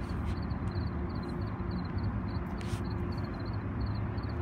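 Steady low rumble and hum of a Metrolink commuter train standing at the platform, with faint high chirps repeating evenly in small groups over it.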